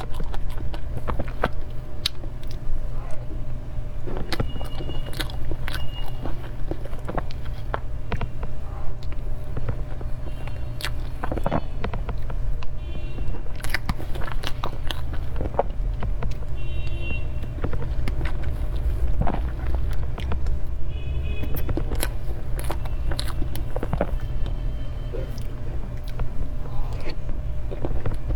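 Close-miked eating of cream cake: chewing and wet mouth sounds with frequent small clicks and smacks, over a steady low hum. A few brief high-pitched squeaks come through at intervals.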